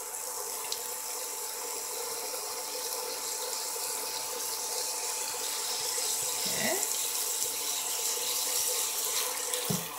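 Chopped onion and garlic sizzling in hot olive oil in a pan, a steady hiss that grows slightly louder.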